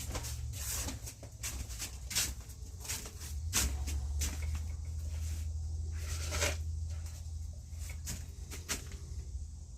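Irregular scrapes and knocks of wet concrete being pressed and worked into a metal mesh frame, over a steady low hum.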